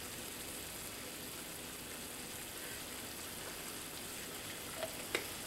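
Pork and cabbage filling sizzling steadily in a cast iron skillet, with a couple of faint clicks near the end.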